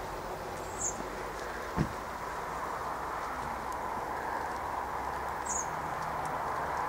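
Steady outdoor background hiss with two brief, high bird chirps, one about a second in and one near the end, and a single dull thump about two seconds in.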